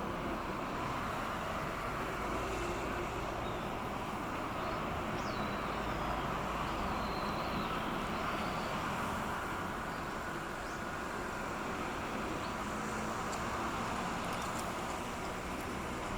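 Pusher tug's diesel engine running steadily as the tug and its barge pass close by, a continuous low drone under a noisy rush.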